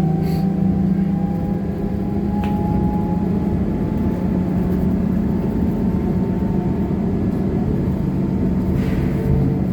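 Trolleybus under way: the steady hum of its electric drive over tyre and road rumble, with a fainter whine rising slightly in the first couple of seconds. A light click comes about two and a half seconds in.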